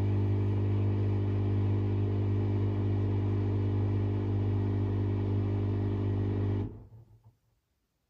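An electric motor hums steadily, then is switched off about seven seconds in and falls silent after a brief faint rattle.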